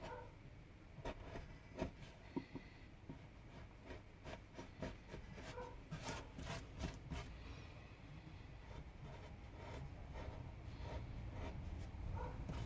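Hand carving tool cutting and scraping pine wood: a run of faint scrapes and small clicks, busiest about halfway through.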